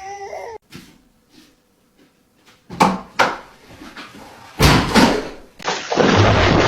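A short dog whine at the very start, then a few sharp knocks and heavier thumps, the loudest about five seconds in, followed by a steady rushing noise.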